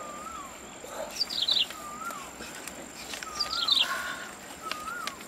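Bird calling repeatedly: a short wavering whistle followed by a quick run of high descending notes, the phrase coming about every second and a half, over a faint steady high-pitched tone.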